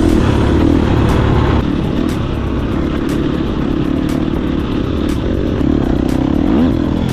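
Dirt bike engine running under throttle while riding, with a brief rising rev near the end.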